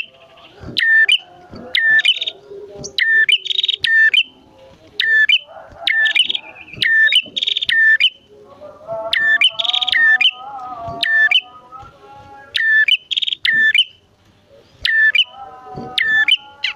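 Male and female prenjak calling loudly: rapid, sharp chirping notes repeated every half second or so, each stepping down in pitch. Around the middle there is a lower, wavering warbled phrase.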